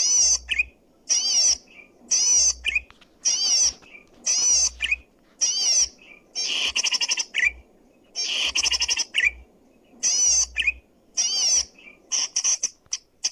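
Zitting cisticola (cici padi) singing loudly: short, rapid chattering phrases repeated about once a second, each ending in a quick, sharper note, with brief pauses between phrases.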